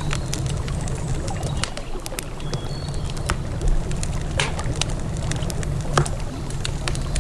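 Wood campfire crackling, with irregular sharp pops, over a steady low rush of river water.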